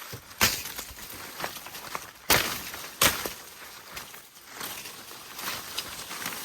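Footsteps crunching and rustling through dry forest floor litter, with three sharp cracks, the first about half a second in and two more close together around two to three seconds in.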